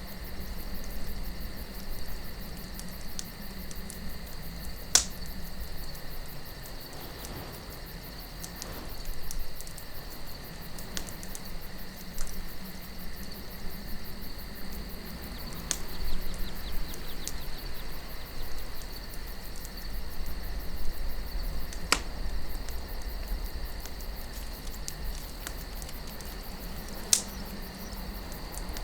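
Campfire burning, with a few sharp wood pops standing out over a soft crackle. Soft wind rumbles low underneath, with a steady high trill throughout.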